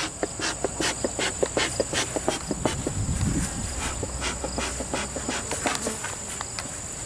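Disturbed honey bees flying out of a freshly opened, crowded hive, with a brief low buzz passing about three seconds in. Irregular sharp ticks and taps run throughout over a steady high whine.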